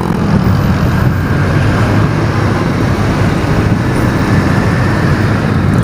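Steady vehicle and road noise from driving through city traffic, loud and even throughout.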